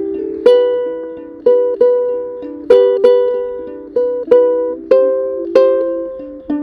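Solo ukulele music: plucked chords, each ringing and fading before the next is struck, about one every half second to a second.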